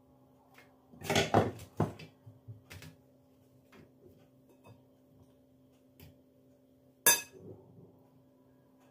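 Dishes and kitchenware clattering as they are handled: a burst of clinks and knocks about a second in, a few light taps, then one sharp clack near the end, over a faint steady hum.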